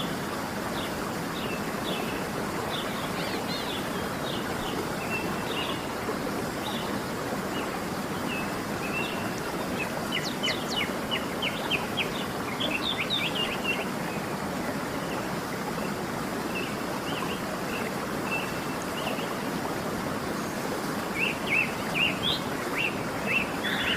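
Steady rushing of a waterfall, with small birds chirping over it in quick high notes. The chirping comes in busier runs about ten seconds in and again near the end.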